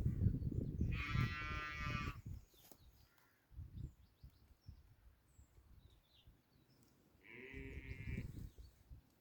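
Sheep bleating twice: one long call about a second in and a shorter one near the end. A low rumbling noise runs under the first two seconds.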